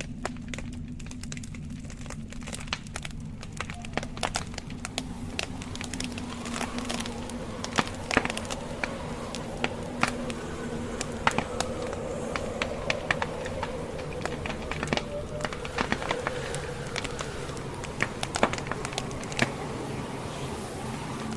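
Wood fire crackling, with irregular sharp pops and snaps, several louder ones in the middle, over a steady low hum.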